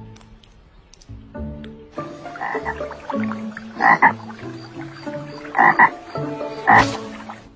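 Animal croaking calls repeating irregularly, with three loud croaks about four, five and a half, and nearly seven seconds in.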